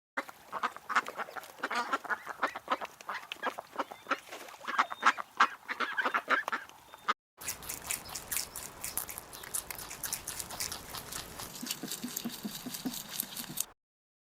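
Ducks quacking in quick, overlapping calls. After a brief break about seven seconds in comes a second, quieter stretch of rapid calls over a hiss, which ends a little before the close.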